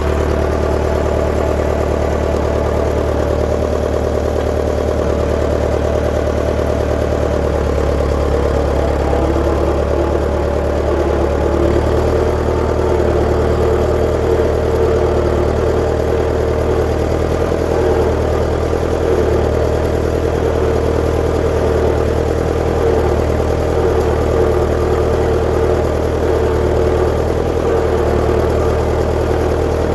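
1959 Fordson Power Major tractor engine running steadily, its note shifting slightly about twelve seconds in.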